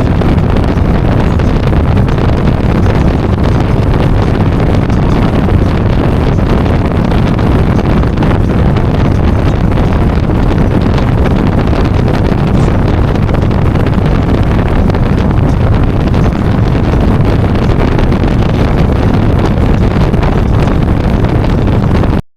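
Heavy wind rush buffeting the microphone of a camera mounted on a motorcycle riding at highway speed, with the bike's running underneath. It starts suddenly at full strength and cuts off abruptly near the end.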